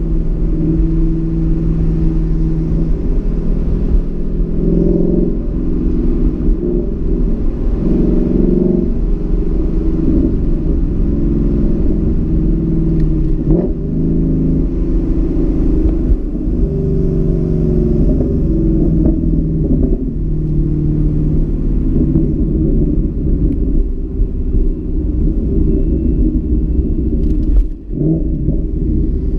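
2015 Mustang GT's 5.0-litre V8 running, a steady rumble heard from inside the car, its pitch rising and falling as the driver works the throttle; a brief dip and quick rise in pitch near the end.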